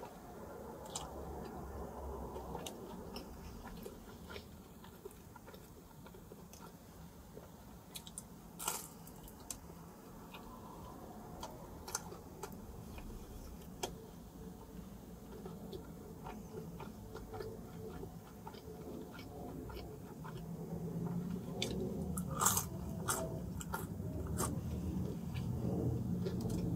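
Eating pepperoni pizza: biting and chewing with scattered sharp clicks, growing louder over the last few seconds.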